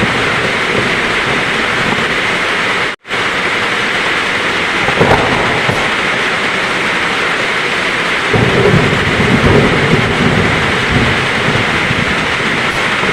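Heavy rain falling steadily in a thunderstorm, with thunder rumbling low from a little past the middle onward. The sound cuts out for an instant about three seconds in.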